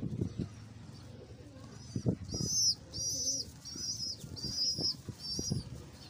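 A bird calling in a run of five short, high chirps about half a second apart, starting about two seconds in, with a few soft knocks around them.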